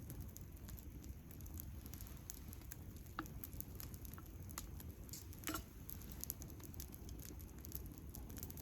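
Wood campfire crackling: scattered small pops and ticks over a low steady rumble, with a louder crackle about five and a half seconds in.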